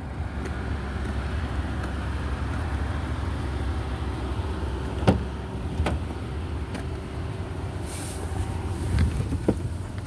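Car engine idling: a steady low hum, with a few sharp clicks about five and six seconds in, a brief hiss around eight seconds and a couple of knocks near the end.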